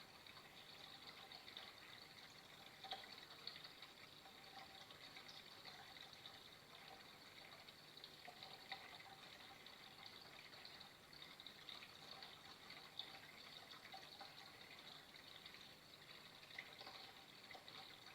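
Faint, steady trickle of running water, with small irregular splashes.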